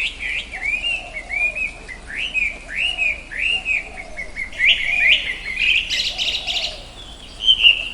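Songbird chirping: a series of short arched chirps repeated about once or twice a second, with a denser buzzy trill about five seconds in.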